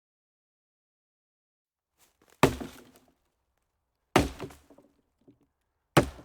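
Three sharp, loud impacts, evenly spaced about two seconds apart, each dying away within half a second, with a few faint knocks between them.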